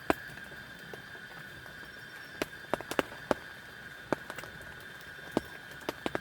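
Irregular sharp taps and crackles, about a dozen, some in quick pairs, over a steady high-pitched hum.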